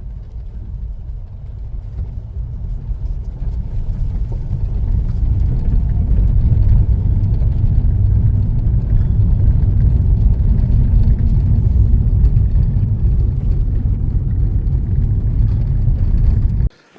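A car driving, heard from inside the cabin: a low rumble of engine and tyres that grows louder over the first several seconds, holds steady, then cuts off suddenly near the end.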